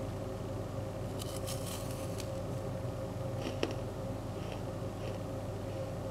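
Faint crunchy chewing of a hard chocolate-coated caramel biscuit, with a few crackles about a second in and a small click past the middle, over a steady background hum with a constant tone.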